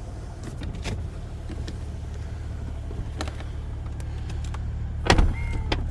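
BMW 750Li's N63 twin-turbo V8 running with a steady low rumble as the car is moved at low speed, with a few light clicks and a sharp knock near the end.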